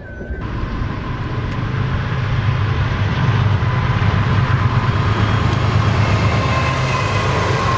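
Diesel freight train approaching, its locomotive rumble growing louder over the first few seconds and then holding steady.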